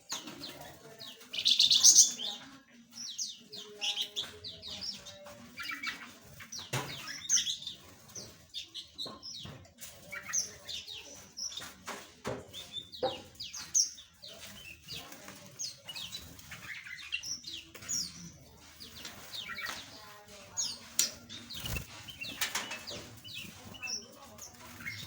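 A flock of small aviary birds chirping, with many short high calls overlapping, and wings fluttering among them. The loudest moment is a brief flurry about two seconds in.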